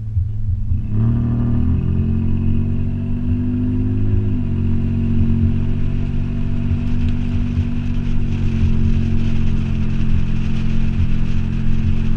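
Toyota 4Runner engine running through a Flowmaster 40 series exhaust with a steady deep note; the engine speed comes up slightly about a second in and eases back a little after four seconds.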